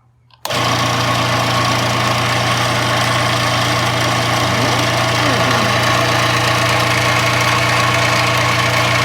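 Old 1991 scroll saw switched on about half a second in, its electric motor starting at once on a salvaged air-conditioner capacitor wired in as the start capacitor, then running steadily with a loud hum as the blade mechanism works. The motor starting shows the rewiring has brought the saw back to life.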